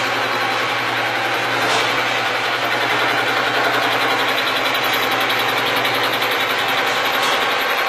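Horizontal milling machine running steadily while cutting bevel gear teeth: a constant motor hum under a dense, even cutting noise.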